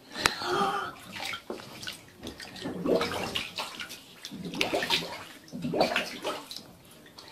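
Water sloshing and splashing in irregular surges as dogs move about and play in the water.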